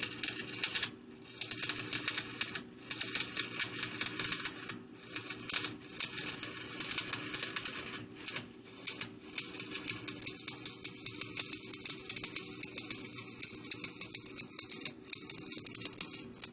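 Electric welding arc crackling in runs of a few seconds, with brief breaks where the arc is stopped and restarted, over a faint steady hum. The arc stops near the end.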